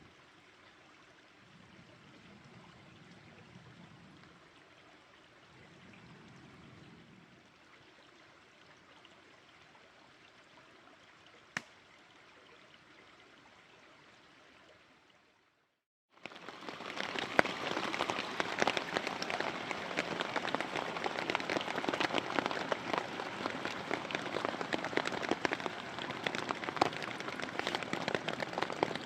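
Faint, steady rush of a mountain stream with one sharp click part way through. About sixteen seconds in, a cut brings a much louder, dense patter of many small crackles and taps.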